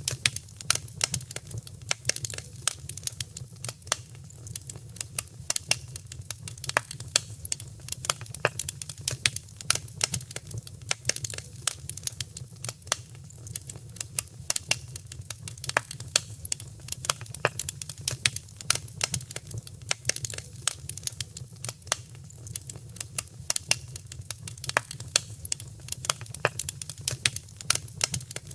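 Wood fire in a fireplace crackling: many irregular sharp pops and snaps, several a second, over a low steady rumble.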